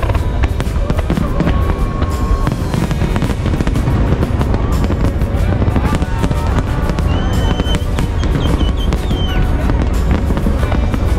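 Fireworks display going off: a dense run of bangs and crackles over a constant low rumble.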